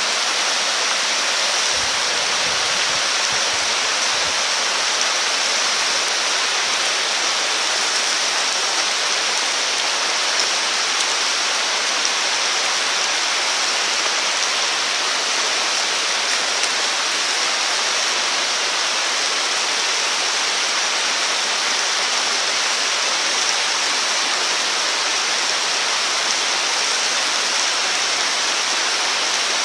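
Steady rushing water noise: a continuous even hiss with no separate drops, knocks or crackles.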